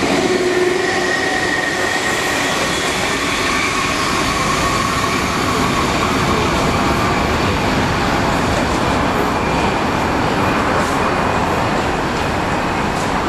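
Electric passenger trains running through a station: a loud, steady rush of wheels on rail. A thin high whine sounds through the first few seconds.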